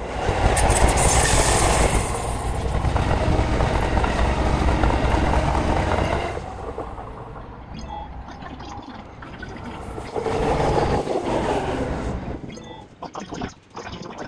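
Electric commuter trains running past on the tracks, with wheel and rail noise and clatter swelling and fading in waves: loud through the first six seconds, dropping back, then swelling again about ten seconds in.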